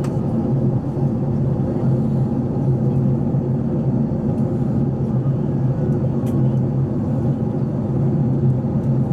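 Airbus A380 passenger cabin in flight: a steady low drone of engines and airflow, with a few faint clicks.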